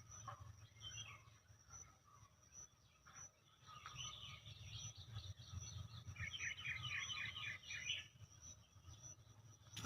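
Birds chirping and calling, with a quick run of repeated notes between about six and eight seconds in, over a high insect chirp repeating about twice a second.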